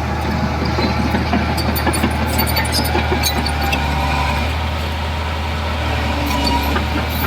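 Heavy diesel construction-machine engine running steadily at low, even revs, with scattered light metallic clicks and clanks over it.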